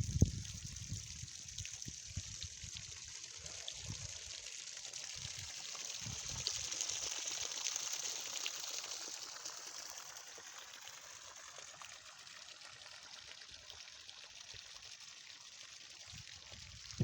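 Pumped floodwater streaming and splashing from a sump pump's discharge, a steady trickling rush that swells a little partway through and then eases. A thump at the very start.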